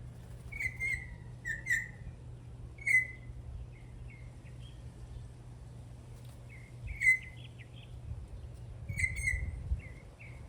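Venezuelan troupial (trupiaal) calling in short, sharp bursts, about five clusters of quick notes spaced a second or more apart. Underneath runs a steady low hum, and a low rumble rises near the end.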